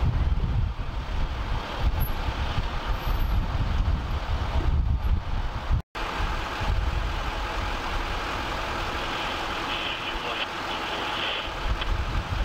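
A large vehicle's engine idling as a steady low rumble, with wind noise on the microphone. The sound cuts out for an instant a little before the middle, and is smoother after it.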